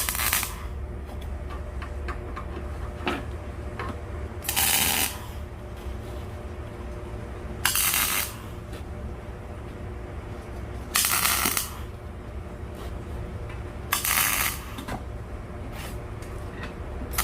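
Short tack welds on steel plate: arc welding crackle in about six half-second bursts, roughly three seconds apart, over a steady low hum.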